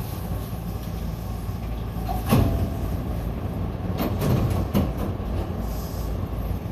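Hankyu commuter train standing at a station: a steady low hum from the train, one loud clunk about two seconds in, and a few sharp knocks a couple of seconds later.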